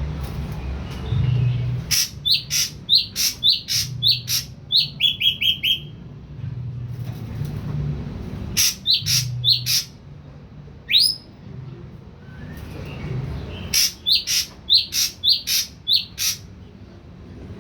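Ashy drongo, a freshly wild-caught bird just beginning to sing, calling in three bursts of sharp notes. The first burst ends in a rapid run of short notes, and a single rising whistle falls between the second and third bursts.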